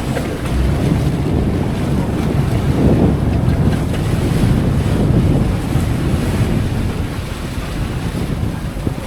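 Wind buffeting the microphone on a fishing boat at sea, with the sea washing around the hull: a steady, rough rumble.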